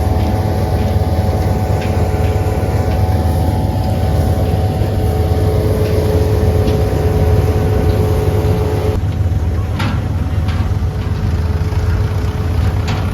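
Heavy diesel engine of a farm machine running steadily. A steady whine rides over it and cuts off about nine seconds in, followed by a few faint clicks.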